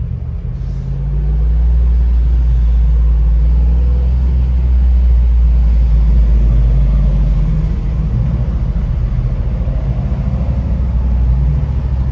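Jeep Wrangler 392's 6.4-litre HEMI V8 and road noise, heard as a deep rumble inside the moving vehicle. The rumble swells about two seconds in and eases a little later on.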